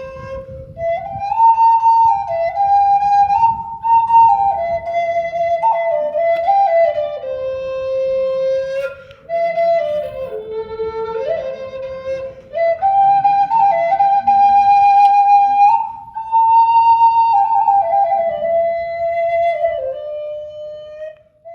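Solo flute playing a slow melody of held notes that step up and down, with a faint low rumble underneath.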